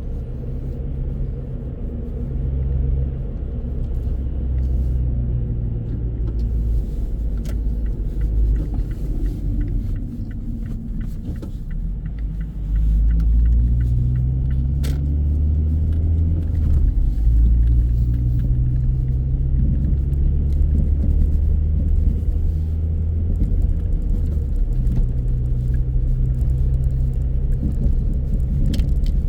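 Car driving: a steady low rumble of engine and road noise, the engine note slowly rising and falling, getting louder about halfway through.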